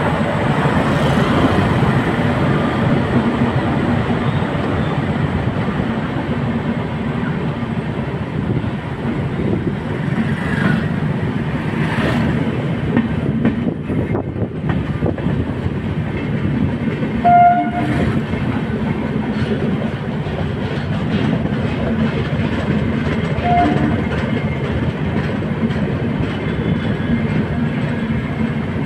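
Superfast express train of LHB coaches running at speed: a steady rumble of wheels on the rails. Two brief horn beeps sound, one about 17 seconds in and another near 24 seconds.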